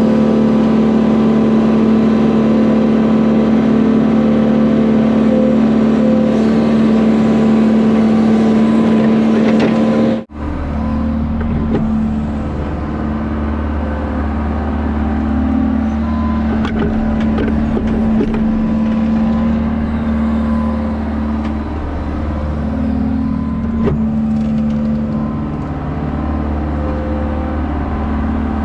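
Diesel engine of heavy digging equipment running steadily. About ten seconds in, it cuts abruptly to a deeper, lower-pitched engine sound.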